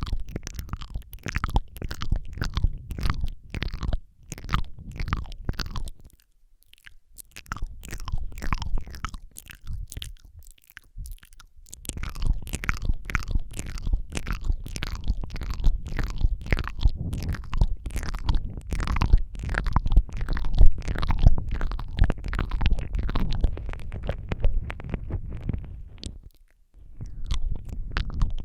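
Close-miked ASMR mouth sounds into a Rode microphone: rapid wet lip smacks, tongue clicks and licking, with a deep rumble from the closeness to the mic. A few brief pauses break the run.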